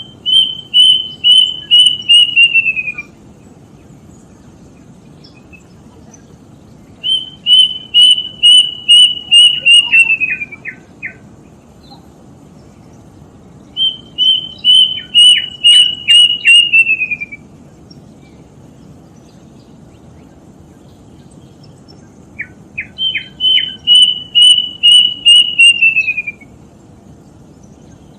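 Plaintive cuckoo (kedasih) singing: four phrases, each a quick run of plaintive whistled notes that steps down in pitch over about three seconds, some ending or starting with a few short lower notes, repeated every six to nine seconds.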